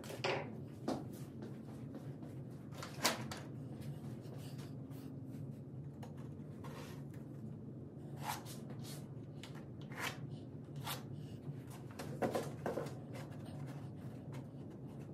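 Scattered short knocks and clicks, about eight over the stretch, over a steady low hum.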